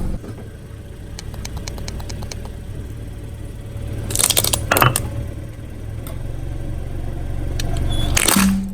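A car's engine running low as its tire rolls over and crushes objects: a run of small crackles, then two loud crunching bursts, about four seconds in and near the end.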